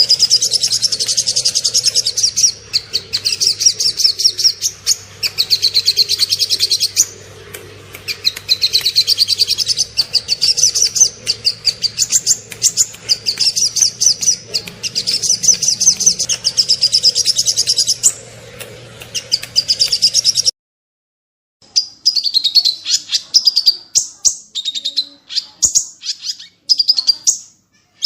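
Small songbirds singing rapid, high-pitched chirping phrases, sharp notes in quick series. About 20 seconds in, the recording cuts off abruptly and a cleaner recording of another small bird's chirping song begins.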